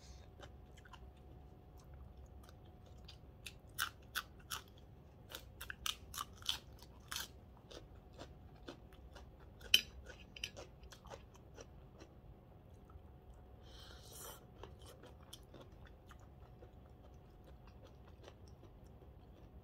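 Close-up mouth sounds of chewing crisp raw vegetables with papaya salad, in irregular crunchy bites and wet mouth clicks. One sharp crunch stands out about ten seconds in.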